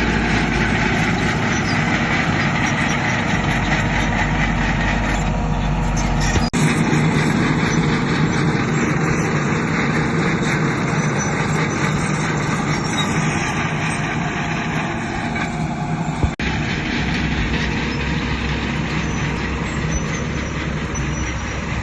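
Heavy diesel earthmoving machinery, a bulldozer and dump trucks, running and working steadily under load. The sound changes abruptly twice, about six and sixteen seconds in.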